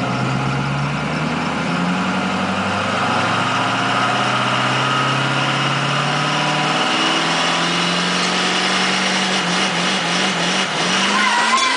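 Twin-turbo Duramax diesel pickup engine pulling, its note climbing slowly and steadily as the truck gathers speed, with a higher whine running alongside. The pitch wavers about three quarters of the way through, then climbs again, and a wavering high tone joins near the end.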